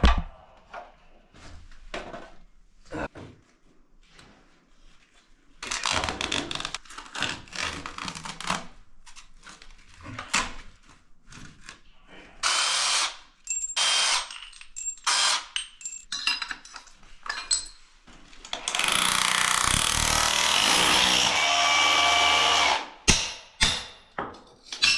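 Power tool run in several short bursts, then held on for about four seconds past the middle, with knocks and clatter of work in between.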